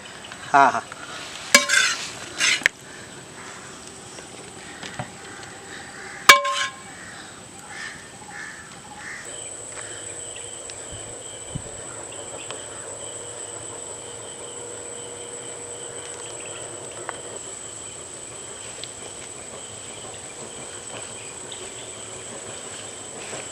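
Kothu parotta being served from the pan with a metal utensil: a few scrapes and knocks, then one sharp ringing clink of metal about six seconds in. After that a faint steady hiss runs on.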